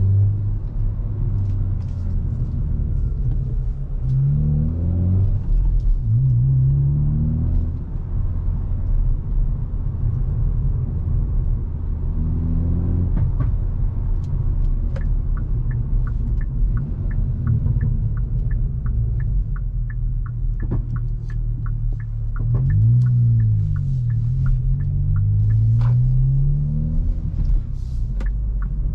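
Hyundai i20 N's turbocharged 1.6-litre four-cylinder engine and exhaust under way, the revs climbing through the gears several times, then falling and climbing again near the end. A steady ticking, about two to three ticks a second, runs through the second half.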